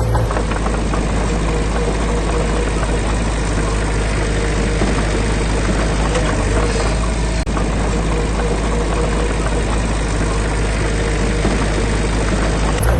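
Diesel engine of a heavy construction machine running steadily, with one brief dip about halfway through.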